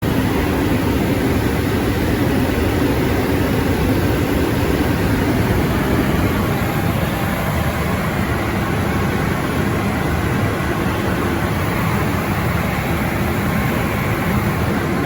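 Rolls-Royce M250 turboprop engine and five-bladed propeller of a Beechcraft T-34A running at power, a steady, loud, noisy drone that cuts in abruptly.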